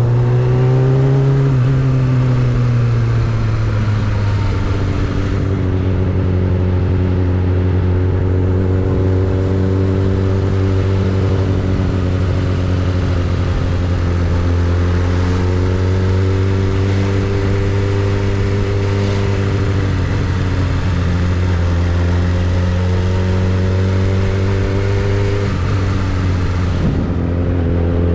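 Suzuki Bandit 600 motorcycle's inline-four engine running, with a strong steady low hum. Its pitch rises and falls gently a few times: a short rise at the start that falls away, then smaller rises and a dip near the end.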